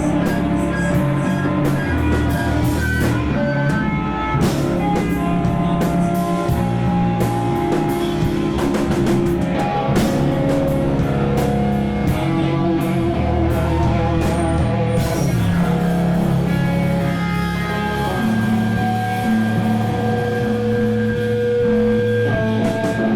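A rock band playing live, with electric guitar and drum kit; held guitar notes over steady cymbal and drum hits.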